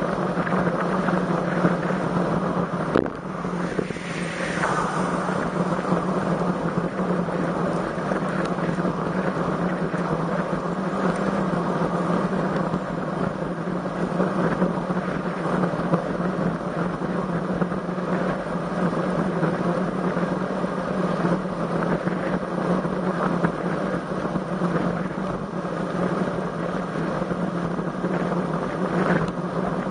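Steady rush of wind and road noise on the microphone during a road-bike ride in strong wind, with a steady low drone. A brief falling whoosh comes about three to five seconds in.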